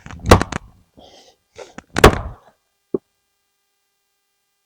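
A few knocks and thuds, the loudest about two seconds in.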